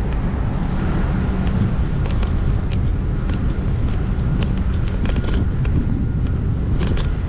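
Wind rumbling on the camera microphone of a moving bicycle, with road noise and scattered sharp clicks and rattles throughout.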